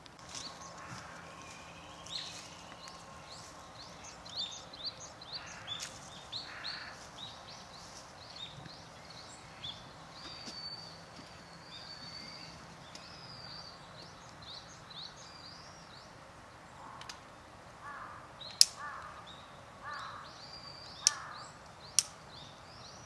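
Small birds chirping and singing over and over in woodland, with a crow cawing about five times near the end. Three sharp cracks stand out as the loudest sounds in the last few seconds.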